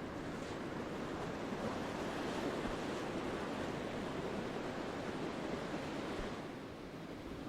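Ocean surf breaking and washing up the beach, swelling through the middle and easing off near the end.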